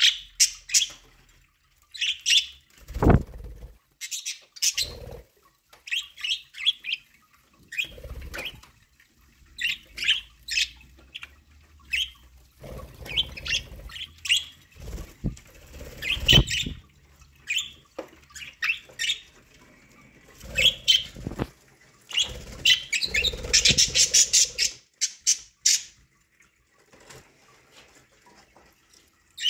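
Budgerigars chirping and squawking in short, rapid calls, with scattered wing flaps and rustles, and a dense burst of chirping about three-quarters of the way through.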